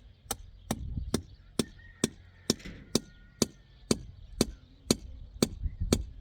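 Steady series of sharp striking blows, about two a second and some fourteen in all, as from a hammer or axe working by hand.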